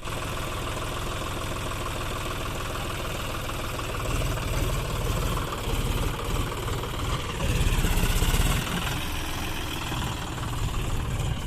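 John Deere 5050D tractor's three-cylinder diesel engine running steadily, picking up in level about four seconds in and running loudest for about a second near eight seconds.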